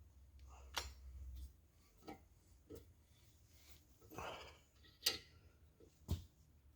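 A few separate light metallic clicks and knocks from hand tools being handled while tapping threads in a cast iron engine block, with a sharper click about five seconds in and a duller knock about a second later.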